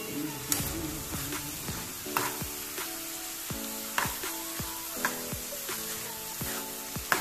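Chopped bitter gourd sizzling as it fries in a pan, stirred with a metal spoon that knocks and scrapes against the pan several times. Background music with steady notes plays along.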